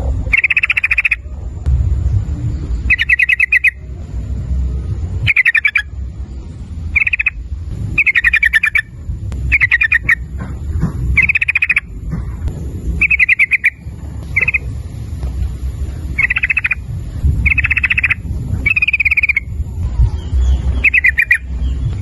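Yellow-vented bulbul (trucukan) singing a string of short, rapid bubbling phrases, about one every second and a half, over a steady low rumble.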